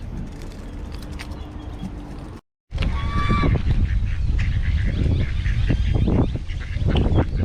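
Waterfowl calling: a loud honk-like call just after a brief dropout, then a run of repeated short calls over a steady low rumble.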